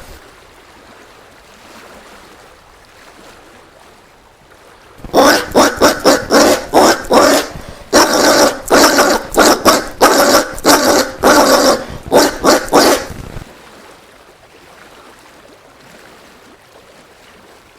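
Collared peccary (caititu) calling. About five seconds in comes a rapid series of short, loud calls, roughly three a second, lasting about eight seconds, and then it stops.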